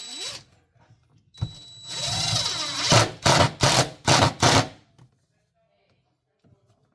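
A power tool running in several short bursts, with a high whine, the last bursts coming about three a second before it stops.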